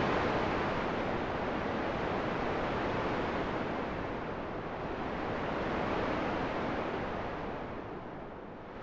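Steady rushing wind noise that slowly swells and eases, dipping lower near the end.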